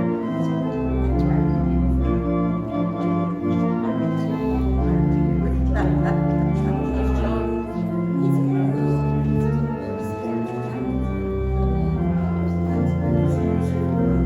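Organ music: sustained chords changing every second or two over a deep bass line.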